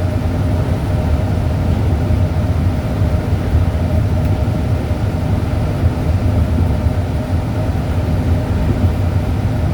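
Steady low drone of a vehicle on the move, engine and road noise with a faint constant hum, unchanging throughout.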